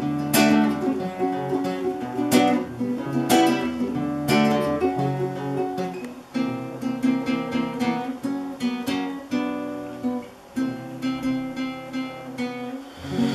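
Acoustic guitar playing alone, strummed and plucked chords ringing out one after another, with a brief pause about six seconds in; it stops just before the end.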